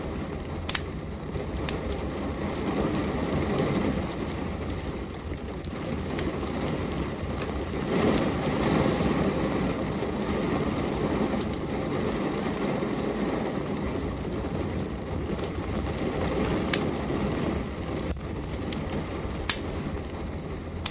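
Steady rain with a low rumble, swelling a little about eight seconds in, and scattered sharp crackles from a burning wood fire in a fireplace.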